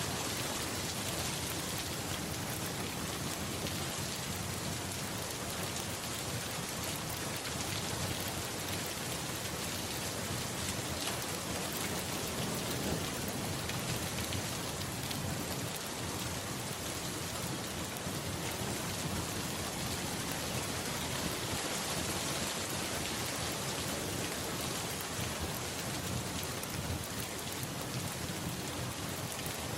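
Steady rain falling, an even hiss that holds without letting up, with a low rumble underneath.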